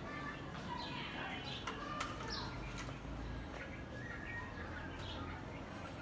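Birds chirping: short, scattered chirps and calls, with a sharp tick about two seconds in.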